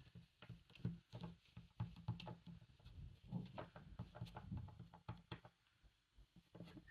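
Quiet, irregular light taps and clicks of craft supplies being handled on a table, a clear stamp being inked and pressed without a block, dying away after about five seconds.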